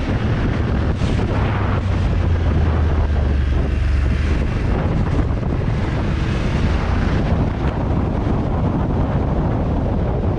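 A motorcycle on the move: wind buffeting the microphone, with the low rumble of its engine underneath, a little stronger from about a second in to about four and a half seconds.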